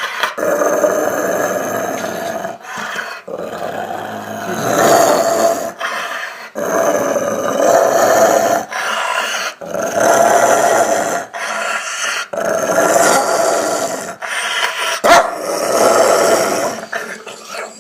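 Dog growling and snarling in a string of long, throaty bouts, each a second or more, with short breaks between them.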